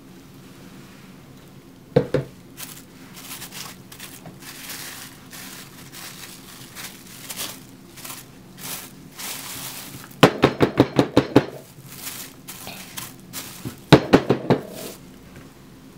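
Kitchen-utensil handling during soap making: rustling and scraping, a sharp knock about two seconds in, and two runs of quick clicks, about six a second, of a utensil tapping against a container, one after ten seconds and one near the end.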